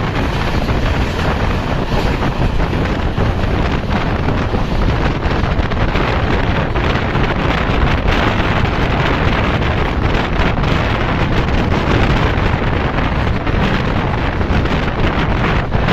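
Wind buffeting the microphone over the steady rumble of a moving train, with no breaks or distinct events.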